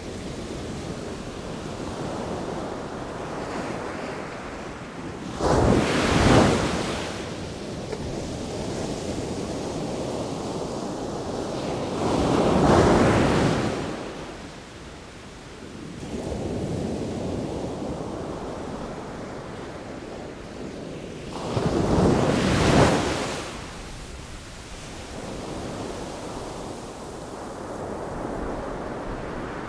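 Sea waves breaking on the shore: three loud surges of surf, about 6, 13 and 22 seconds in, over a steady wash of water between them.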